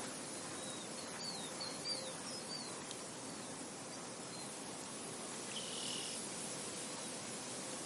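Steady soft wind blowing across a field, with a run of quick high bird chirps in the first few seconds and one short buzzy call a little past the middle.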